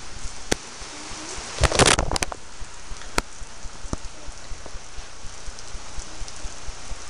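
Steady rain falling and pattering on hard surfaces, with a few sharp clicks and a brief loud cluster of knocks about two seconds in.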